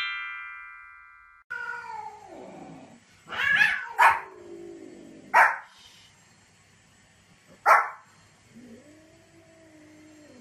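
A ringing chime sound effect fades out over the first second and a half. Then a small white spitz-type dog barks about four times in short, sharp single barks, mixed with a falling call early on and a rise-and-fall call near the end from the cats it is barking at.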